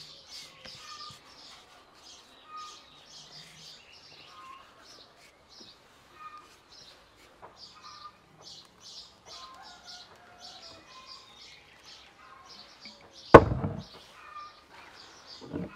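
Small birds chirping over and over in short high calls. About thirteen seconds in there is one loud thump, as a dough-covered glass jar is set down on a wooden table, and a softer knock near the end.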